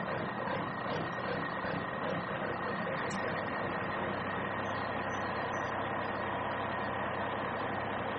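A small motor running steadily with an even hum.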